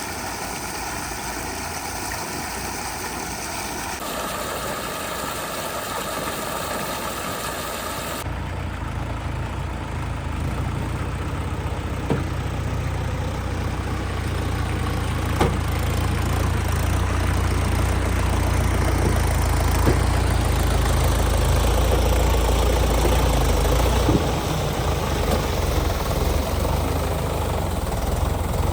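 Tractor diesel engine running, with a low rumble that comes in abruptly about a third of the way through and grows gradually louder, and a few short knocks.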